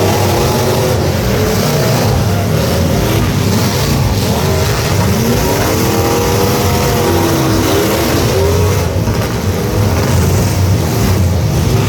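Several truck engines revving at once over a continuous loud engine din, their pitches rising and falling across one another.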